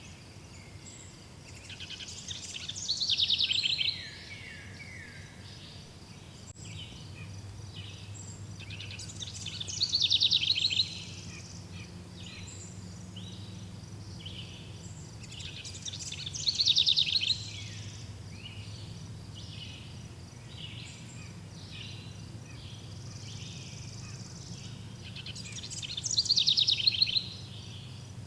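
A songbird repeats the same song phrase four times, about every seven seconds. Each phrase builds into a fast trill and then cuts off abruptly. A steady, pulsing insect chorus runs underneath.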